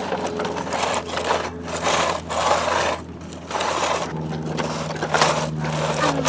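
Plastic toy construction trucks scraping and scooping through dry dirt in short repeated bursts, over a steady low hum.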